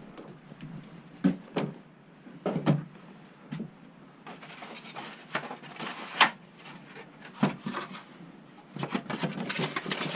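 Scattered wooden knocks and clatter of things being handled, a few single sharp knocks spaced a second or more apart, then a quicker run of rustling and clicking near the end.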